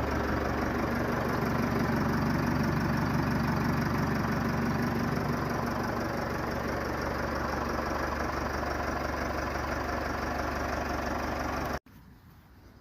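Nuffield Universal DM4 tractor's four-cylinder diesel engine idling steadily, then cutting off abruptly near the end.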